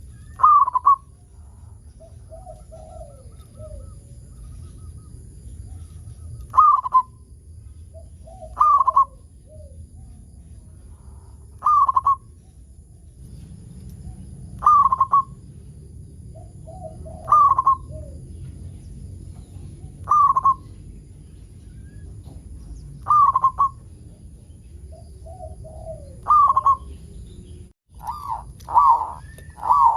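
Zebra dove (perkutut) cooing: short, loud, repeated calls about every three seconds, with a few softer lower notes in between. Near the end, after a brief dropout, the calls come much faster, about one a second.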